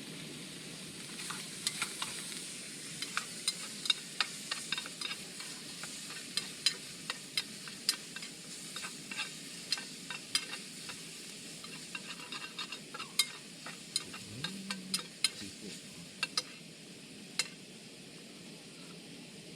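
Food frying in a pan: a steady sizzle with many irregular sharp pops and spatters, which thin out over the last couple of seconds.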